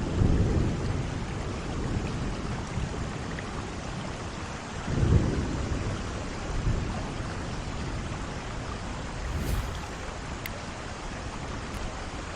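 Heavy rain falling steadily with thunder rumbling. The rumbles swell at the start, loudest about five seconds in, and again more softly around seven and nine and a half seconds.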